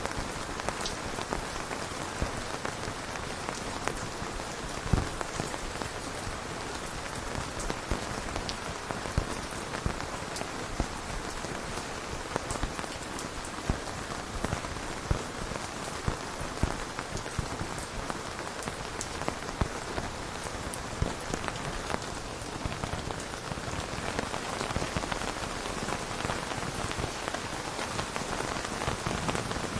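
Steady rain falling, with many sharp individual drop hits on a close surface.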